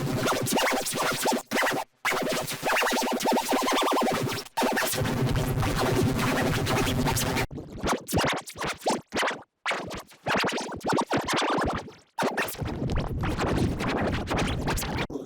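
Heavily effected, distorted cartoon audio: a dense, harsh glitchy noise with scratch-like stuttering that cuts out abruptly several times.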